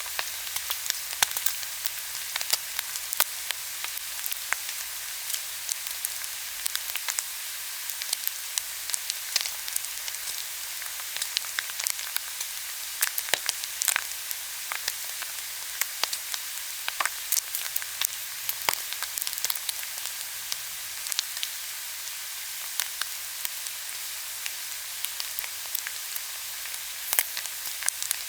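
Pork belly sizzling on a hot grill, a steady fat hiss with frequent sharp pops and crackles of spitting fat.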